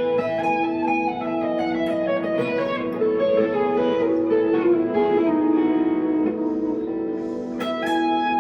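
Electric guitar, a 1963 Fender Telecaster through a tube amp, playing a slow melodic line over ringing, sustained notes. A chord is struck near the end.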